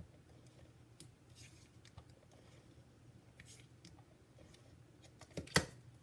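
Faint scraping and light clicks of adhesive being applied to the back of a paper card panel and the paper being handled, with one sharp tap about five and a half seconds in.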